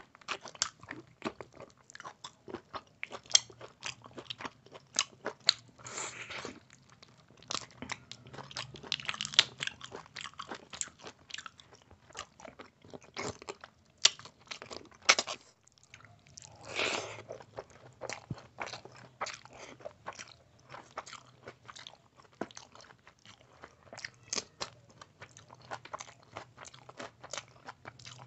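Close-miked chewing of mouthfuls of rice and spicy mutton curry eaten by hand: a constant run of short mouth clicks and bites, with a few longer breathy stretches, the clearest about 17 seconds in.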